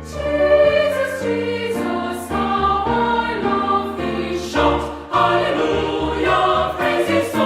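A choir singing a Korean Christian worship song, one sung phrase after another, with a brief breath-like dip about five seconds in.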